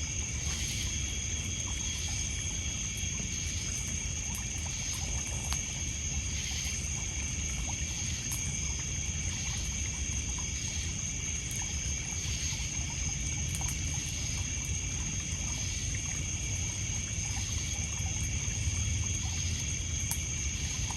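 Night lakeshore ambience: a steady, high-pitched chorus of crickets and other insects over water trickling and lapping on a pebble beach, with scattered faint crackles from a campfire.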